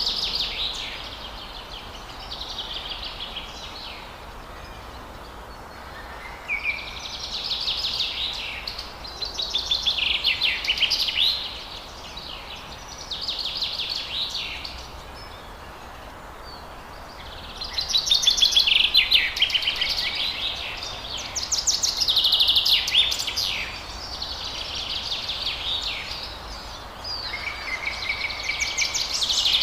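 Forest birds singing: short phrases of quick, high notes repeated every few seconds, over a steady background hiss.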